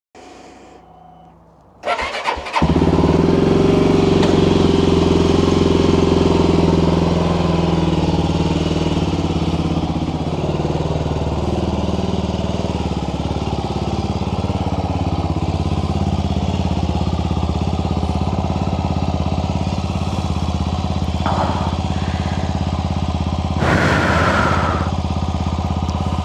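Mash Five Hundred 400 motorcycle engine cranked by its starter, catching about two seconds in and then running at a steady idle. A brief higher-pitched sound comes near the end.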